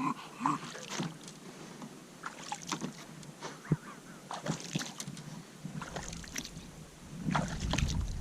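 Water splashing and sloshing against a kayak in short, irregular bursts as a bulldog plays with the water at the side, growing louder toward the end.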